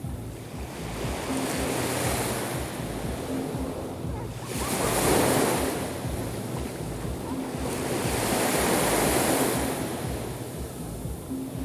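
Sea waves breaking and washing up the shore, swelling in surges every three to four seconds, the biggest about five seconds in.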